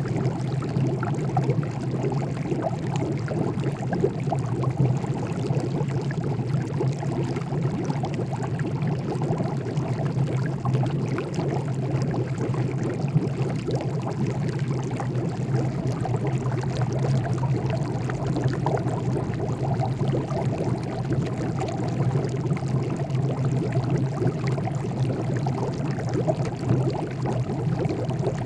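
Pot of water at a steady rolling boil: dense, continuous bubbling with many small pops, unchanging throughout.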